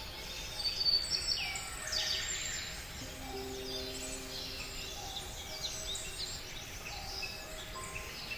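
A chorus of many small birds chirping and whistling, with quick overlapping calls throughout, over a few soft held low notes of background music.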